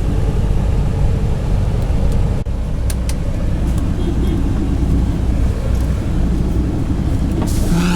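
Semi truck's diesel engine running with a steady low rumble, with a single click a couple of seconds in.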